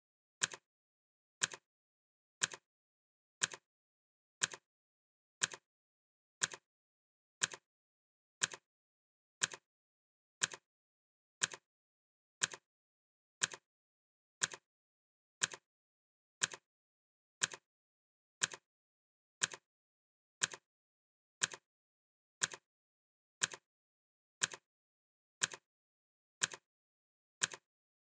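Clock ticking sound effect: one sharp tick each second, perfectly regular, with silence between the ticks.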